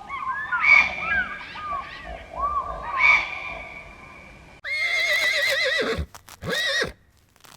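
Horse whinnying: a long whinny with a wavering pitch that drops at its end, then a shorter one. These follow a few seconds of another animal's repeated short calls that glide up and down.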